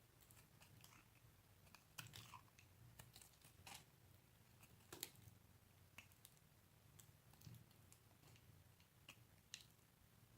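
A blade cutting and crunching into a bar of soap: faint, irregular crisp crackles and clicks, the sharpest about two seconds in and again about five seconds in, over a faint low hum.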